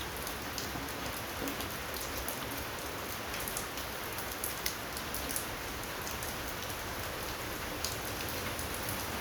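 Steady rain falling, an even hiss with a few sharp drip ticks scattered through it.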